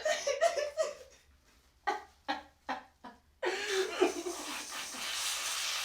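Wordless voice sounds, short laughs and exclamations, in the first few seconds, then a steady hiss for about two seconds near the end.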